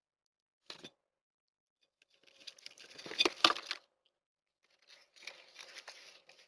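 Three bursts of rustling, tearing noise with silence between them: a short one under a second in, a longer and louder one around the middle, and another near the end.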